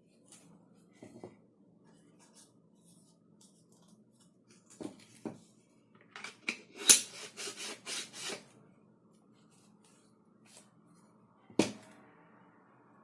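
Hard plastic parts of a 3D-printed airsoft gun kit handled on a bench: scattered clicks and knocks, with a quick run of sharp clicks in the middle and one more sharp click near the end.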